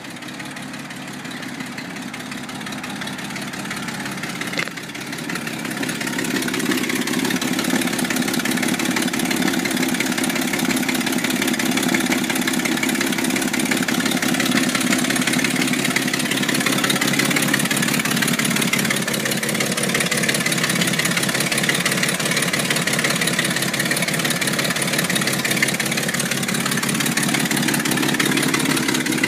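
1956 Chevrolet panel truck's inline-six engine running steadily at idle. A sharp click comes about five seconds in, and the engine is louder after it.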